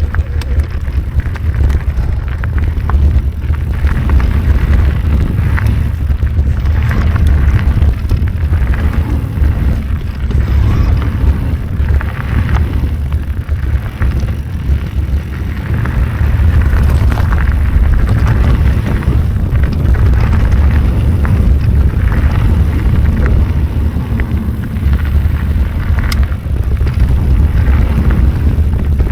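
Wind buffeting the microphone of a bicycle rider moving along a dirt trail, a steady low rumble, with scattered rattles and clicks from the bike over rough ground.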